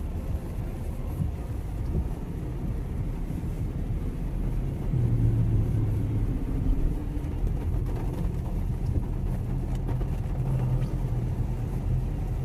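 Cabin noise inside a Mitsubishi Xpander driving in heavy rain: a steady low drone of road, engine and rain, muffled by the cabin's sound insulation, with a low hum that swells twice.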